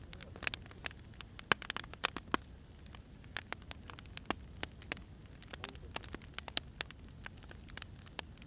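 Burning firewood crackling: irregular sharp pops and snaps, several a second, over a faint low rumble.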